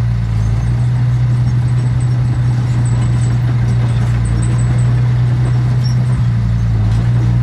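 Heavy construction machine's diesel engine running steadily, a low, even drone with no change in pitch.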